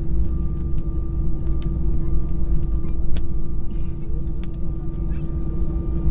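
Airliner cabin noise while taxiing: a steady low rumble with a constant hum and a thin steady whine, broken by a few light clicks.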